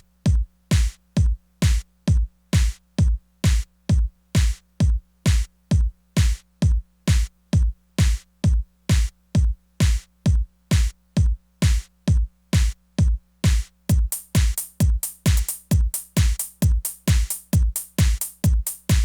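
Korg Electribe Sampler ES2 playing a tech house beat: a steady four-on-the-floor kick drum, about two hits a second, over a sustained low bass tone. About fourteen seconds in, extra hits fill in between the kicks.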